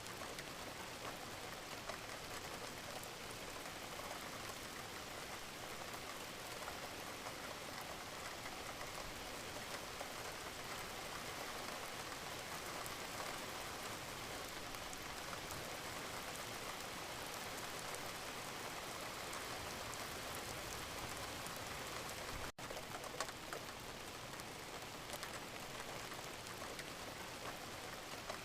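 Wood fire burning in a fireplace: a steady hiss with dense, fine crackles. The sound drops out for a split second about three-quarters of the way through.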